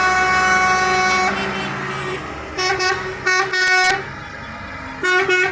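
Parade vehicle horns sounding over engine rumble: one long held blast, then a quick run of short toots, then another long blast starting near the end.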